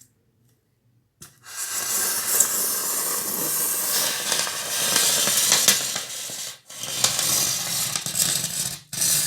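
Improvised foley sound effect: a loud, dense crackling hiss full of small ticks, starting about a second in and running in three long stretches broken by two brief gaps.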